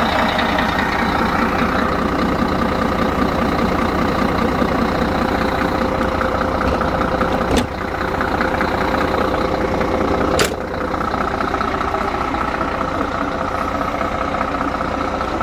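Scania 114 380 truck's six-cylinder diesel engine idling steadily, with two sharp clicks about seven and ten seconds in.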